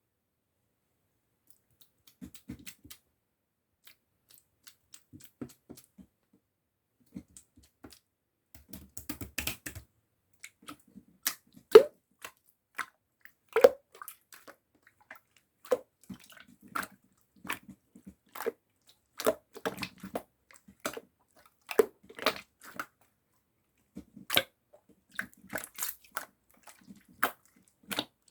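Clear slime being pressed and worked by hand, making scattered sticky clicks and small pops at an uneven pace. The clicks are sparse at first and grow denser, with a few louder pops near the middle.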